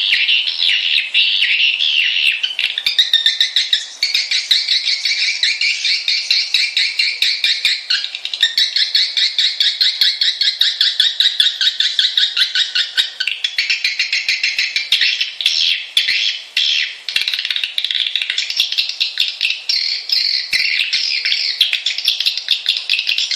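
Swiftlet lure call: loud, dense, rapid twittering of swiftlets, many chirps overlapping. The pattern switches abruptly every few seconds. It is a recording of the kind played to attract swiftlets to roost in a swiftlet house.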